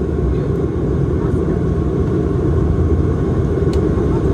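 Steady drone of a Bombardier Dash 8-Q400's Pratt & Whitney PW150A turboprop engines and propellers, heard from inside the cabin, with a faint click near the end.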